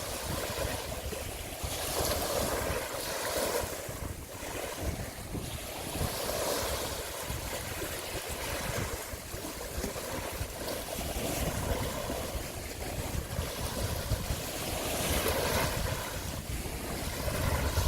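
Wind buffeting the microphone over the wash of waves and water, swelling and easing every few seconds.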